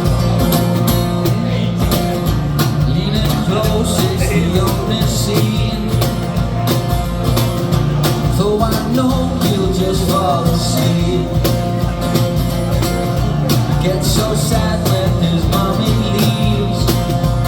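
Rock band playing live, with drums keeping a steady beat under a loud, full band sound.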